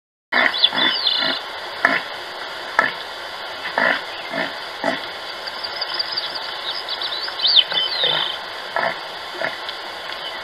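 Repeated short animal grunts at irregular intervals, about a dozen, with birds chirping high above in places.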